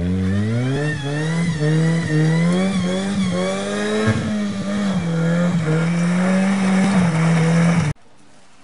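A motor vehicle's engine revving up quickly and held at high revs, its pitch repeatedly rising and dipping slightly, then cutting off abruptly near the end.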